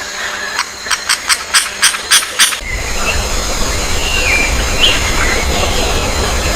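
Birds calling: a run of about eight sharp, harsh notes, roughly four a second. About two and a half seconds in, it gives way to a steady noisy background with a low rumble and scattered short chirps.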